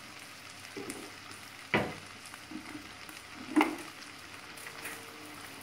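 Beans, tomato paste and pastırma sizzling as they sauté in a pot over a gas flame, with two sharp knocks, about two seconds apart.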